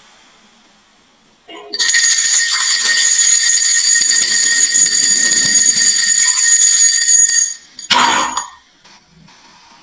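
Marble run: about two seconds in, a loud steady ringing of several high tones starts over a rolling rumble and lasts about six seconds, then stops. A short clatter follows about a second later.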